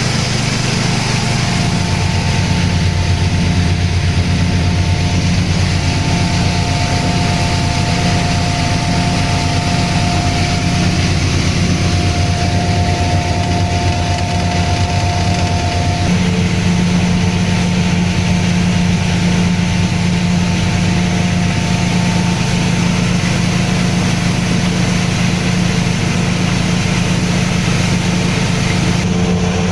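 Engine-driven rice husking and milling machine running steadily: a small engine's steady hum under a broad hiss and a few steady higher whines from the machine. About halfway through, the note changes: one whine stops and the hum takes on a different pitch.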